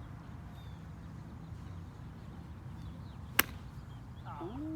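A golf club striking a ball: one sharp, loud crack about three and a half seconds in. Near the end a man lets out a drawn-out "ooh".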